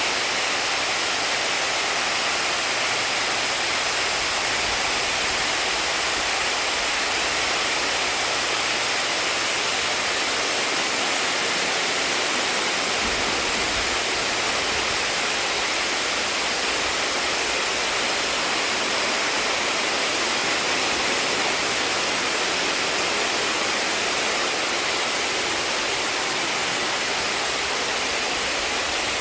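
Indoor water fountain: falling water splashing in a steady, even rush with no change.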